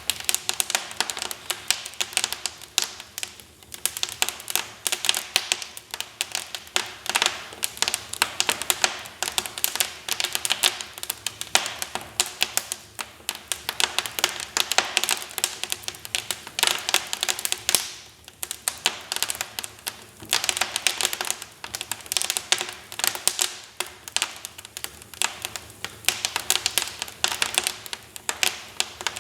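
Wood fire burning in a fireplace, crackling and popping continuously in irregular clusters of sharp snaps over a soft hiss, with busier and calmer spells.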